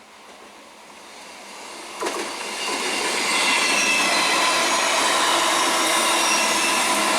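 Electric multiple unit (EMU) local train approaching and running close by. It grows louder over the first three seconds, with a sharp knock about two seconds in, then settles into a steady loud rush of wheels on rails with high squealing tones.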